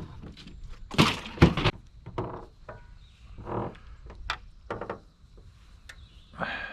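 Knocks and thumps on the boat while a just-caught crappie and the tackle are handled: two loud knocks close together about a second in, then scattered lighter taps and clicks.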